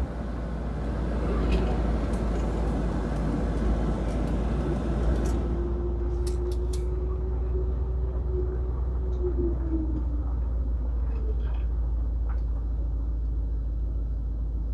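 1964 Ford Thunderbird's 390 V8 idling with a steady low rumble. About midway, a whine sets in for roughly five seconds, then drops in pitch and stops.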